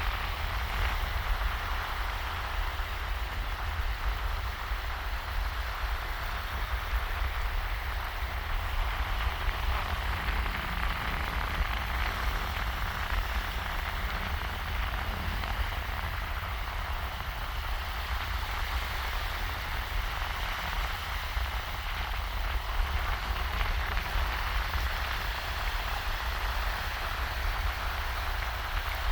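Small, shallow waves washing steadily onto a sandy beach: a continuous hiss with no distinct breaks, over a steady low rumble.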